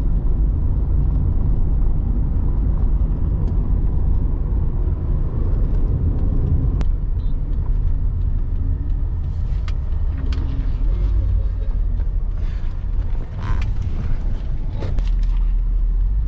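Car driving off-road on a rough track: a steady low rumble, with clicks and rattles from the bumps in the second half.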